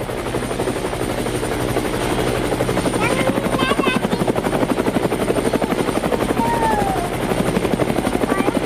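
Helicopter rotor sound: a steady, rapid chopping pulse. A few short high gliding chirps sound over it about three to four seconds in and again near the middle.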